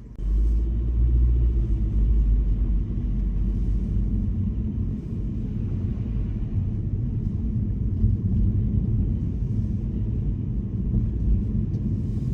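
Car driving on snowy streets: a steady low road and engine rumble, which jumps up abruptly just at the start and then holds.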